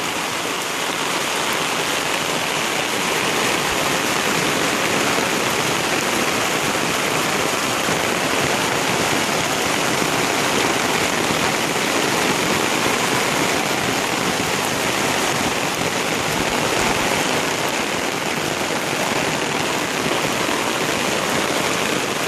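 Heavy tropical rain pouring steadily onto dense foliage and banana leaves: a loud, even hiss that holds without a break.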